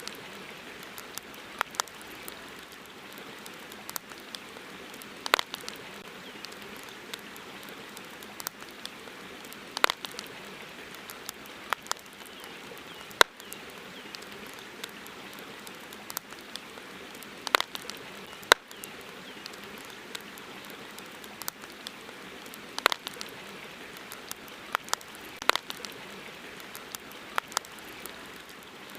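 Wood campfire crackling: irregular sharp snaps and pops, a few of them loud, over a steady hiss.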